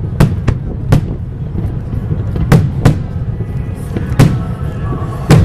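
Aerial fireworks shells bursting: about seven sharp bangs at uneven spacing over a steady low rumble.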